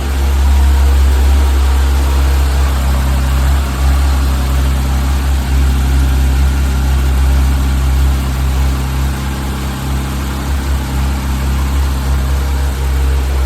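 Porsche 911 GT3's flat-six engine idling steadily through its loud exhaust, the sound heavy in the low end with a constant pitch and no revving.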